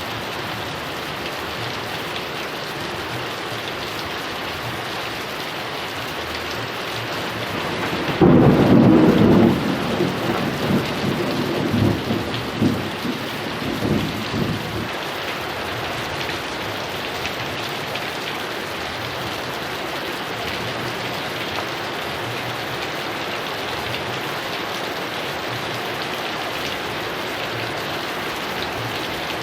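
Heavy rain falling steadily, with a loud crack and rumble of thunder about eight seconds in that rolls on for several seconds before fading back under the rain.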